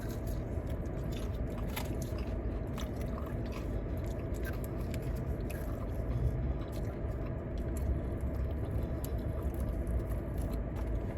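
Close-up mukbang eating sounds: a person biting and chewing food with small wet mouth clicks, over a steady low hum.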